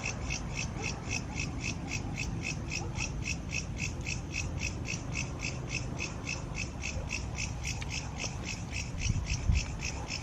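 A high-pitched animal call repeated in an even pulse, about five pulses a second, going on without a break, over a low rumble; one dull thump sounds near the end.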